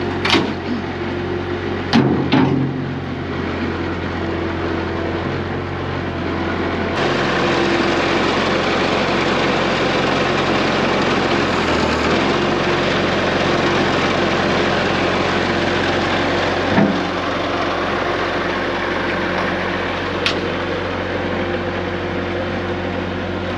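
Diesel skid steer engine running steadily, with a few sharp knocks. It runs louder and harsher from about seven seconds in until about seventeen seconds in.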